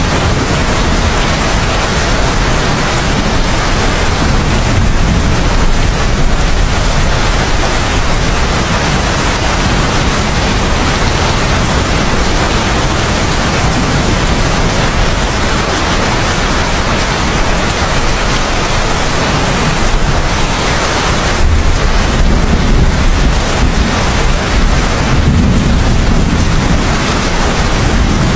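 Heavy rain falling steadily as a dense hiss. A deeper low rumble of thunder swells in about three quarters of the way through.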